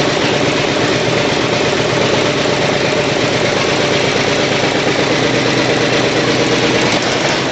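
Fuel-injected 424-cubic-inch V8 engine running steadily at idle on its first run with a newly fitted Haltech Platinum Sprint 500 engine computer.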